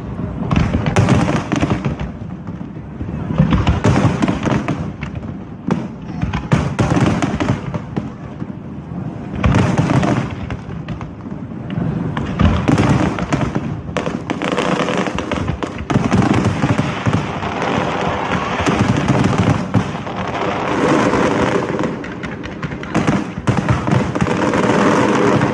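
Fireworks display: a continuous run of aerial shells bursting in bangs and crackles, loud throughout, with voices of onlookers underneath.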